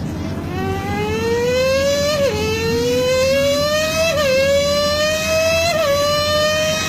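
A person imitating a MotoGP racing motorcycle with their hands: one pitched whine that climbs steadily, drops sharply and climbs again three times, like an engine revving up through the gears.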